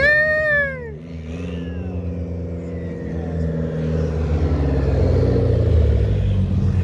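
Car engine running steadily and growing louder from about three seconds in, as if the car is drawing closer. In the first second a loud high-pitched call rises and then falls in pitch.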